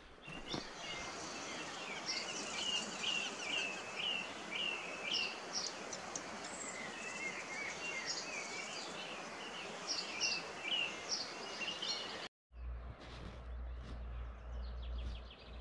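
Small bird chirping over and over, short high chirps about two a second. Near the end it cuts off, and a steady low rumble takes over.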